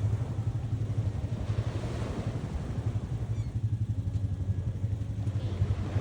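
Wind buffeting the microphone in a steady low rumble over the wash of ocean surf on a beach.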